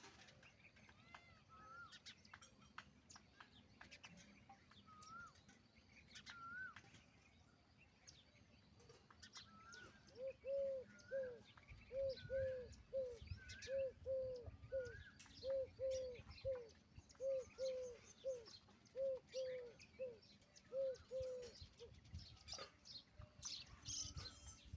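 Peahen (Indian peafowl) giving a rapid run of short repeated calls, about two a second, starting about ten seconds in and lasting around twelve seconds. Faint higher chirps from other birds come before it.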